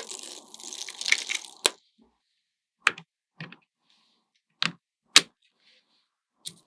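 Small neodymium magnet balls: a dense rattling clatter of balls for the first second and a half, then about six single sharp clicks, spaced irregularly, as balls snap together.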